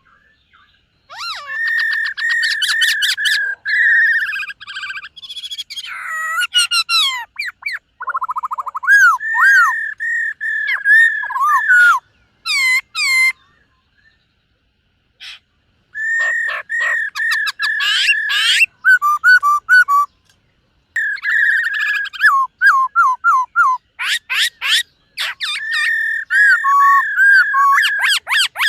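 Black-throated laughingthrush singing: loud whistled phrases of fast repeated notes and slurred fluting calls, in bursts separated by short pauses and one longer silence around the middle.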